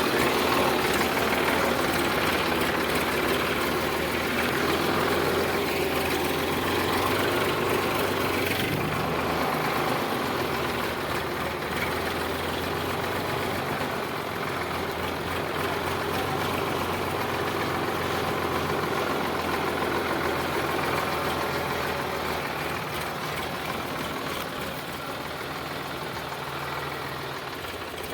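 Sonalika DI 745 tractor's diesel engine running steadily, growing gradually quieter over the last several seconds.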